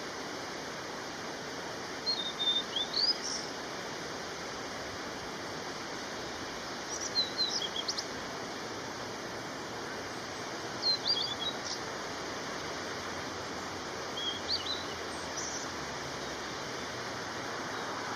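A songbird singing short, high chirping phrases about every four seconds over a steady hiss.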